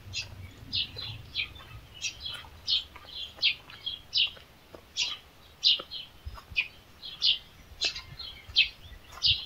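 Small songbirds chirping: a steady series of short, high, falling chirps, about one every two-thirds of a second.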